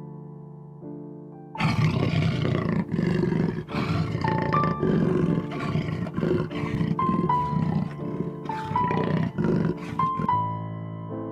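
A loud, rough animal vocalisation, pulsing in short surges, starting about a second and a half in and stopping near the end, over soft piano music.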